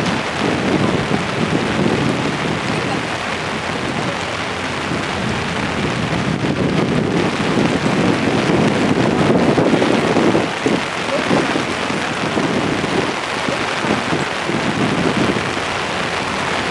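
Wind buffeting the microphone: a loud, rumbling rush that swells and drops in uneven gusts.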